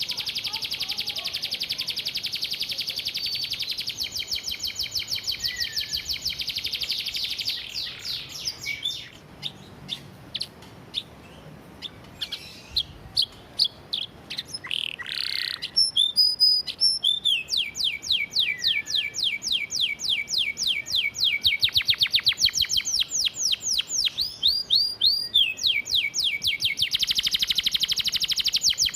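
Domestic canary singing, a song trained with sparrow notes. Long runs of very fast, rapid-fire trills are broken in the middle by a few seconds of scattered single chirps, and then the fast trills pick up again.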